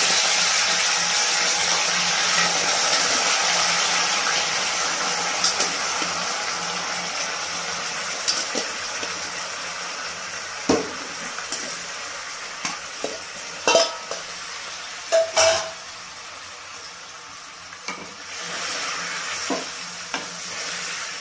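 Boiled beetroot, carrot and potato pieces sizzling in hot oil in a kadai, the sizzle slowly dying down and then picking up again near the end. A spatula knocks and scrapes against the pan several times in the second half as the vegetables are stirred.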